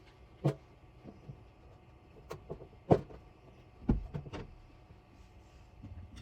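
A handful of sharp knocks and clicks at irregular intervals. The loudest comes about three seconds in, with a cluster shortly after, over faint steady background noise.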